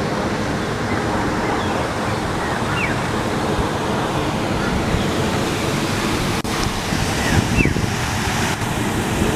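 Steady wind rushing over the microphone, with a few short, high bird chirps, about three seconds in and again near the end.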